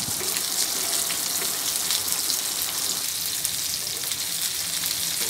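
Tilapia tail with tomatoes and garlic cloves frying in mustard oil in a pan: a steady sizzle with fine crackling.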